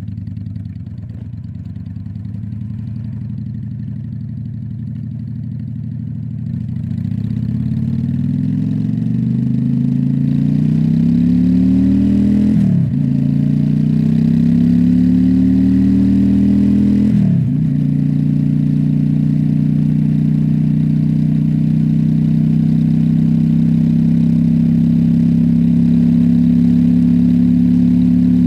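Honda Shadow V-twin motorcycle engine running low and steady, then pulling away about six seconds in. It revs up through the gears, with two quick upshifts that each drop the pitch, then settles to a steady cruise.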